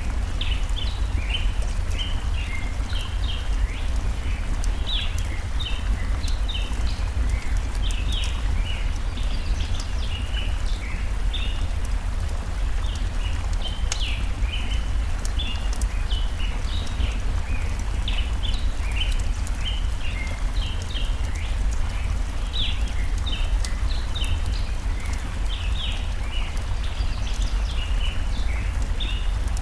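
Layered forest ambience: small birds chirping in quick, short notes without pause over a stream's steady low rush, with a campfire crackling in scattered sharp pops.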